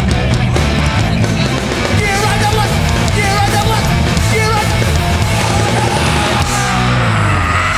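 Hardcore punk band playing live and loud: distorted guitars, bass and drums with voices singing over them.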